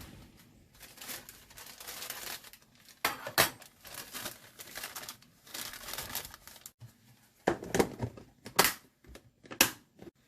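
Plastic grocery packaging crinkling and rustling in irregular bursts as it is handled, with the loudest, sharpest rustles about three seconds in and again in the last few seconds.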